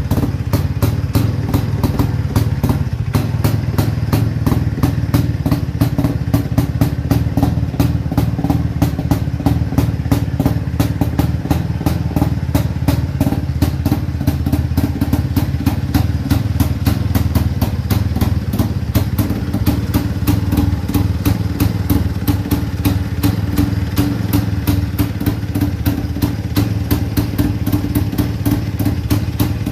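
Single-cylinder two-stroke engine of a restored 1957 IZh-49 motorcycle, idling steadily with an even run of exhaust pulses. The engine note shifts slightly a little past halfway.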